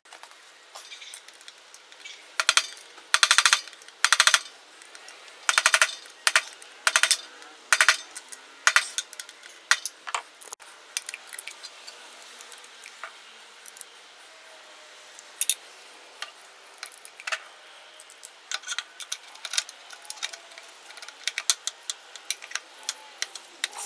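Hand tools and metal engine parts clicking and clinking during engine reassembly. Several short bursts of rapid clicks come in the first third, then sparser, lighter clicks.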